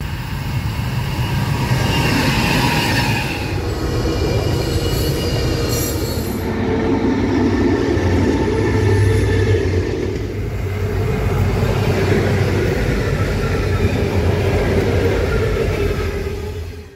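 Diesel-hauled freight trains passing close by: locomotive engines running and wagons rolling over the rails. Thin high steady tones sit over the top in the first few seconds.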